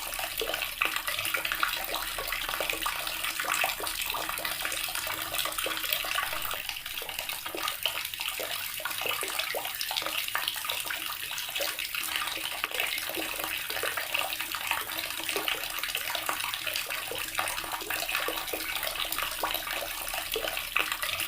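Water tap running steadily, the stream splashing into a basin with constant small spatters.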